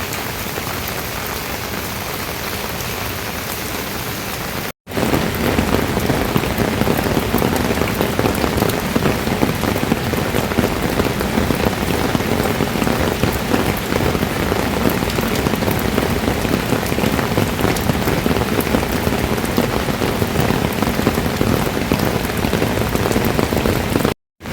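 Steady rain falling, an even hiss with no other events. About five seconds in it cuts out for a moment and returns louder and fuller, with more weight in the lower range; it cuts out again briefly near the end.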